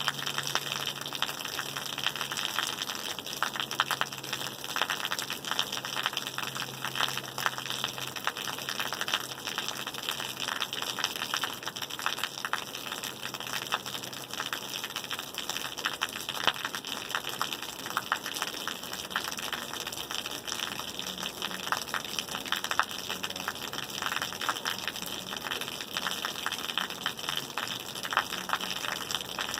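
Rain falling steadily: a dense, even patter of many drops over a constant hiss of water.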